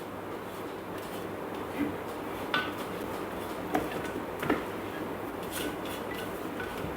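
Kitchenware being handled: several sharp clinks and knocks of dishes and utensils, over a steady low hum.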